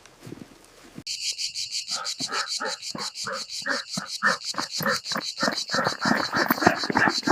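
A loud chorus of insects, a fast pulsing trill high in pitch, starts suddenly about a second in. About a second later a rhythmic lower pulsing of roughly four beats a second joins it.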